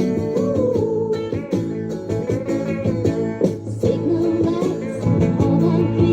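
Early-1970s pop song: a sung melody over guitar and bass with a steady beat.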